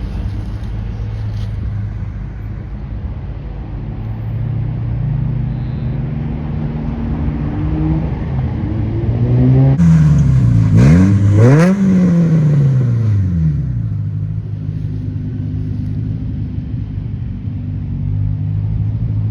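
Modified car engine running at low revs, revved twice in quick succession about ten to twelve seconds in, the pitch shooting up and dropping back each time, then settling back to a steady low burble.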